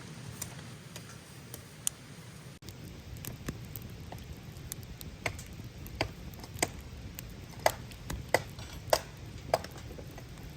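Knife chopping on a cutting board: sharp single knocks, a few at first, then a steady run of about one every half second or so from about halfway through.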